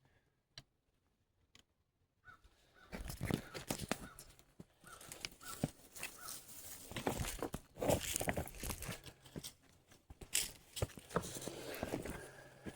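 Footsteps crunching and scraping on loose rock during a climb up a rocky slope, uneven steps with small clicks, starting after about two seconds of near silence.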